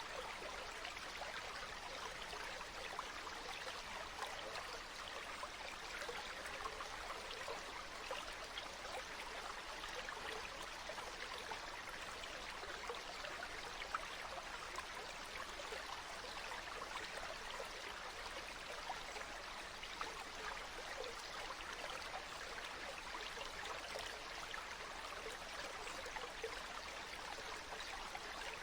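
Water flowing steadily over stones in a stream, a continuous babbling and trickling.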